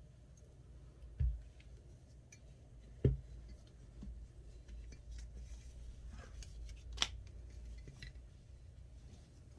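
Scissors snipping in short cuts, with small rustles of handled material, two dull thumps about one and three seconds in, and a sharp click near the seven-second mark.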